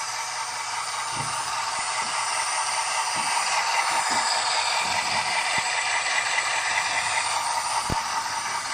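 A few light clicks and knocks, the last near the end the sharpest, as a small HO scale model locomotive is handled. A steady hiss runs underneath.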